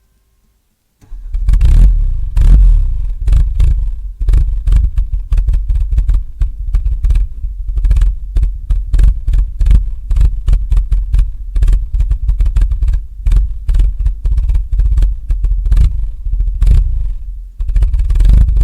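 Car engine revved slowly up and down again and again through the exhaust, warming up from a cold start, with a rapid crackle riding on the exhaust note. It starts suddenly about a second in.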